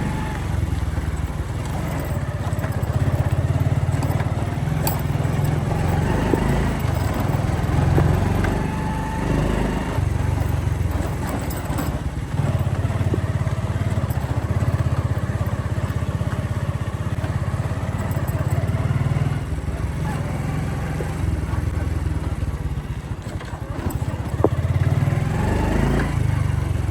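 Motorcycle engine running steadily while riding along a street, its note rising and falling a few times.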